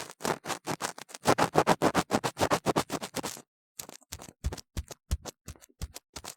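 Ear-cleaning tool scraping vigorously inside a silicone ear model close to the microphone: quick rhythmic scratching strokes, about five a second, break off about three and a half seconds in and resume as sharper separate clicks with a low thump.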